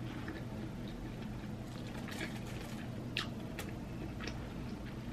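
Wet chewing and lip-smacking from someone eating BBQ ribs close to the microphone: a few sharp wet clicks over a steady low hum.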